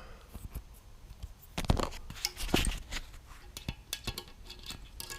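Scattered light metallic clicks and clinks of small parts and hand tools on a Jaguar cylinder head as the valve collets are taken out, a cluster of them about two to three seconds in.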